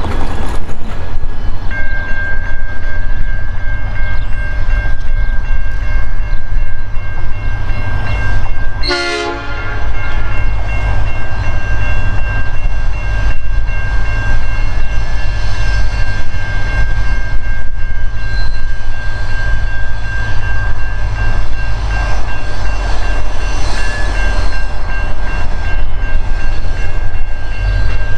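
Diesel-hauled freight train approaching on a curve: a heavy low rumble with a steady high-pitched whine that starts about two seconds in, and a short pitched sound, like a brief horn note, about nine seconds in.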